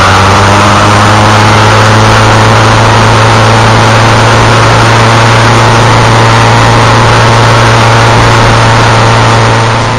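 Yamaha XJR1300's air-cooled inline-four engine running at a steady speed on the move, over heavy wind hiss on the onboard microphone. The sound fades out near the end.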